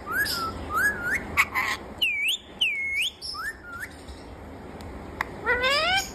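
Pet parrot calling and whistling: short rising calls, then two swooping whistles that dip and rise again about two seconds in, and a longer rising call near the end.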